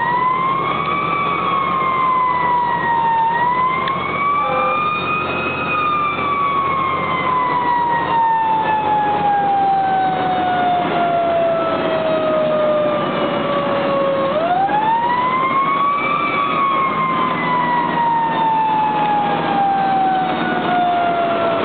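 Fire engine's siren wailing. Its pitch rises quickly and then slides slowly down, starting up again about three seconds in and again about fourteen seconds in, over a steady rumble of road and engine noise.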